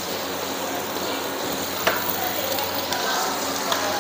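Garlic, chilli, cabbage and mustard greens sizzling in a hot wok as they are stir-fried for chicken fried rice, with a few sharp clinks of the spatula against the wok.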